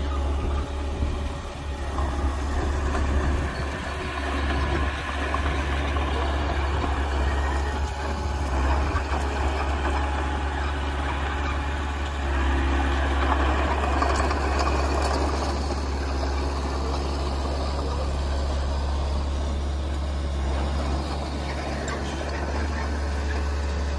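Heavy diesel construction machinery running steadily, with a constant deep low rumble under a dense mechanical noise.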